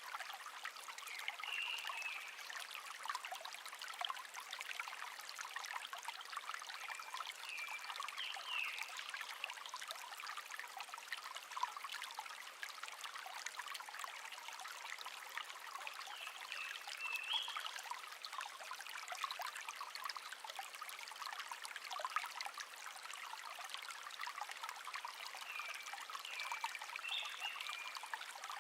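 Shallow stream babbling and trickling steadily, with a songbird singing a short warbled phrase about four times, roughly every eight or nine seconds.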